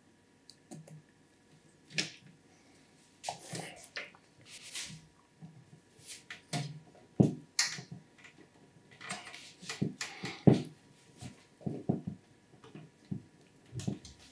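Irregular clicks, knocks and short rustles of hands working on a PC build, handling the power supply and its cables and parts against the case.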